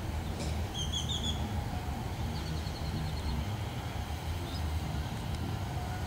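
Steady low outdoor rumble, with a short, high bird call about a second in and a faint run of quick high chirps around the middle.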